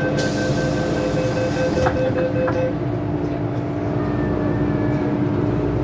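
MTR M-Train door-closing warning: a rapid, evenly pulsing beep that stops a little under three seconds in, with a few knocks as the doors shut. It plays over the steady hum of the train's equipment.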